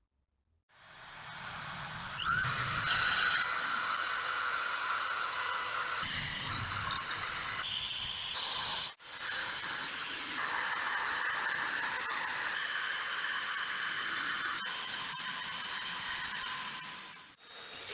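A power tool abrading rusty metal: a steady high hiss with a squealing tone over it, running in two stretches with a brief break near the middle.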